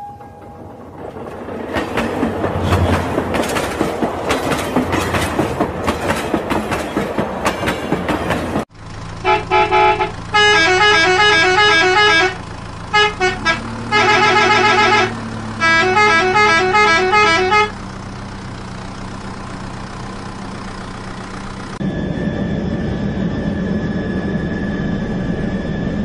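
A battery-powered toy train running on its plastic track with a busy rattling whir for about nine seconds. Then electronic toy horn toots and a beeping tune come in short bursts, followed near the end by a steady electric hum.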